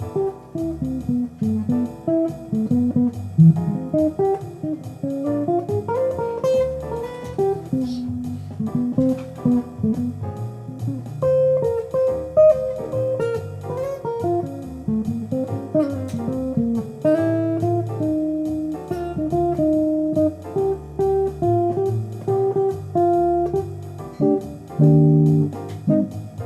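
Guitar music: plucked guitar notes over a bass line, in a relaxed bluesy style.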